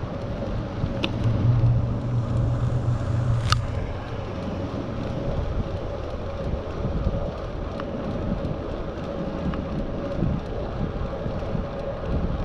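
Wind buffeting a GoPro Hero 7's microphone while riding a bicycle, over steady rolling road noise. A low rumble swells for the first few seconds, and a single sharp click comes about three and a half seconds in.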